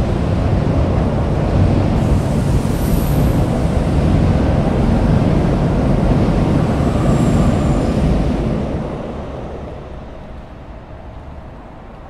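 Keikyu electric train passing on elevated track: a steady rumble of wheels on the rails that fades away about nine seconds in as the last car goes by.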